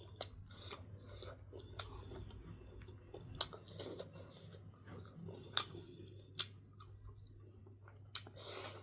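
A person chewing food close to the microphone, mouth sounds with sharp crunchy clicks every second or so over a steady low hum, and a louder breathy rush near the end.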